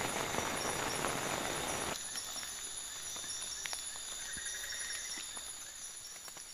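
Steady rain noise that cuts off abruptly about two seconds in. Quieter night-forest sound follows: a steady high chirring of insects, scattered ticks and drips, and a short pulsed call a little past the middle.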